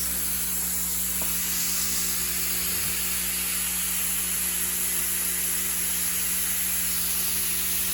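Lawn mower engine running steadily while mowing, a constant hum under a broad, even hiss.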